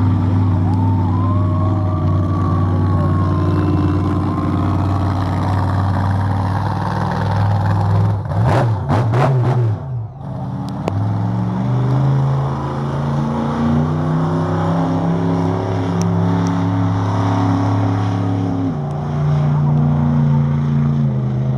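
Monster truck's big V8 engine running loud at a steady fast idle. It is revved sharply about eight seconds in, then held at higher revs for several seconds before dropping back near the end.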